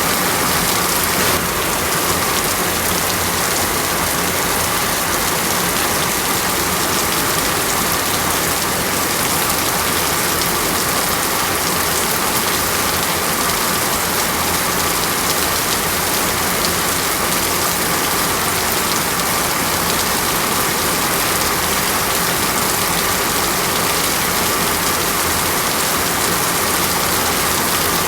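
Steady rain falling in a rainforest, an even, unbroken hiss.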